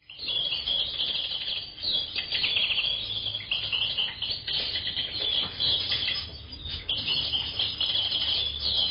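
Several birds chirping and twittering at once, a busy high-pitched chorus with a faint low hum underneath.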